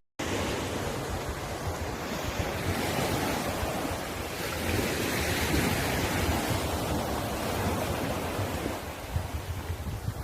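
Sea waves washing onto the shore: a continuous surf noise that swells and eases slowly, with wind rumbling on the microphone. The sound drops out for a split second at the very start.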